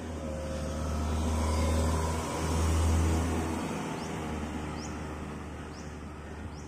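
A motor vehicle's engine passing on the road, growing louder to a peak about three seconds in, then fading.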